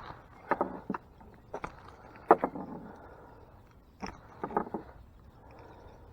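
A hooked catfish thrashing and kicking its tail in the boat: irregular knocks and slaps in small clusters, the loudest a little past two seconds in.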